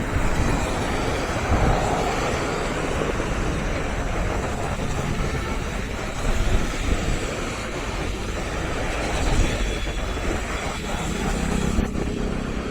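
Strong wind buffeting the microphone, a steady rushing noise with a heavy low rumble.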